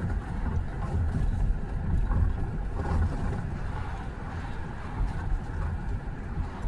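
Freight train rolling past: a steady low rumble.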